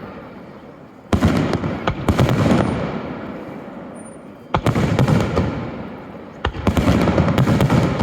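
Aerial firework shells bursting in quick volleys: several sharp bangs close together, each volley trailing off in a fading rumbling echo. Volleys start about a second in, about four and a half seconds in, and about six and a half seconds in.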